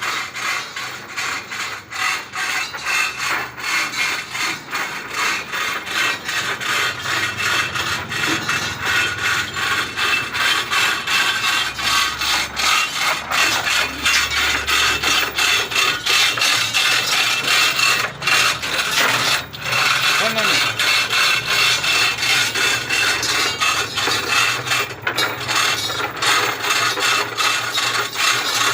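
Generator running with a fast, steady mechanical rattle, a low hum swelling briefly midway.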